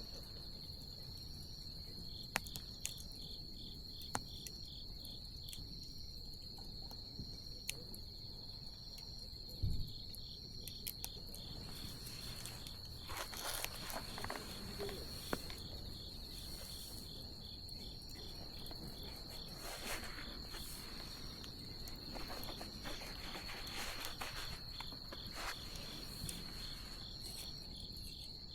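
Wood bonfire crackling with scattered sharp pops and patches of hiss, over a steady high-pitched insect trill.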